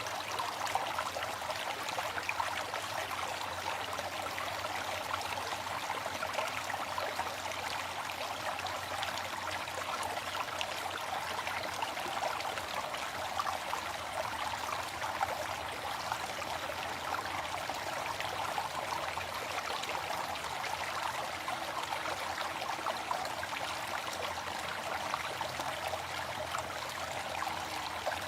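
Waterfall: a steady, unbroken rush of falling water splashing, its sound sitting mostly in the middle and upper range with little low rumble.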